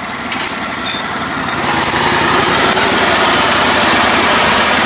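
Small engine of a lifted riding mower running, growing louder as it is throttled up about a second and a half in and then holding steady. Two short clicks in the first second.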